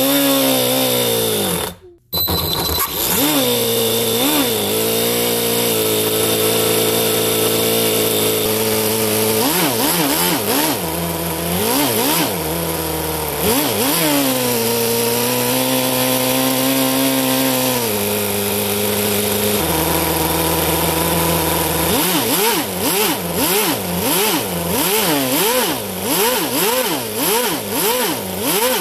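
Toyan FS-L400 miniature inline four-cylinder nitro engine running. Its pitch falls at first and it cuts out for a moment about two seconds in. It is then revved up and down several times, holds a steady speed, and drops to a lower speed. Near the end it is blipped up and down quickly, about twice a second.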